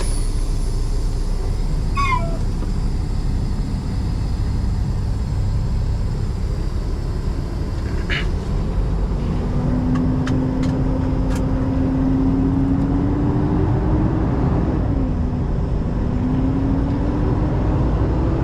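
Semi-truck diesel engine running as heard from the cab, its note climbing from about halfway through, dropping briefly and climbing again near the end as the truck pulls away. A short falling squeak comes about two seconds in, and a few light clicks follow later.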